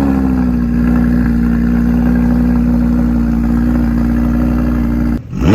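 Performance car engine running loud and steady at one speed, then revved sharply near the end with a quick rise in pitch.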